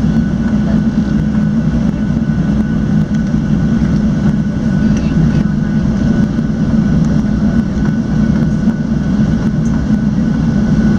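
Steady cabin drone of a Boeing 737-700 on the ground before takeoff, strongest in the low range, with a faint constant high whine over it.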